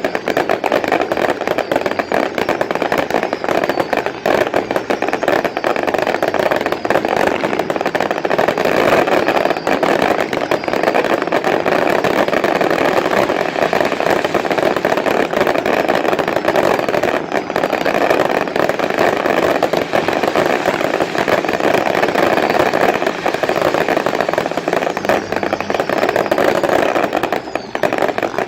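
Consumer fireworks going off in a continuous, dense barrage of crackling and popping.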